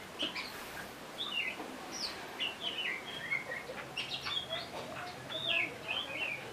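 Small birds chirping: many short, quick calls that slide up and down in pitch, overlapping one another throughout.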